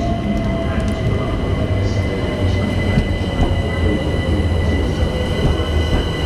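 London Overground Class 378 electric multiple unit running in alongside the platform: a steady rumble of wheels on rail with a steady high whine over it.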